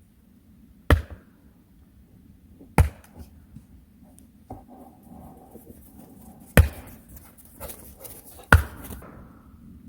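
Four sharp, loud blows of a tool striking wood, roughly two seconds apart, with smaller knocks and handling noise between them.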